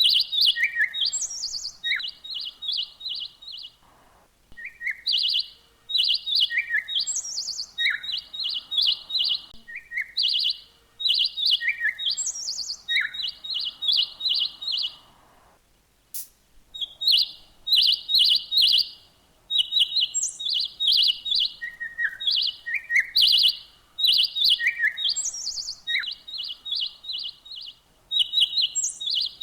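A songbird singing the same short phrase over and over: a quick run of high chirps with a few lower and higher notes mixed in. Each phrase lasts a couple of seconds, with a short pause about halfway through.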